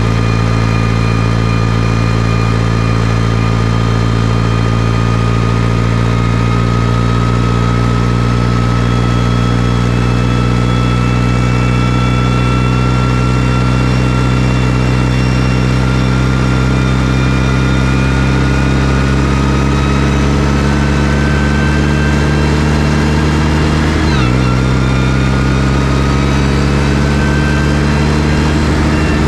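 New Holland T6040 tractor's diesel engine running steadily, its pitch climbing slowly, with a brief sharp dip in pitch about 24 seconds in before it picks up again.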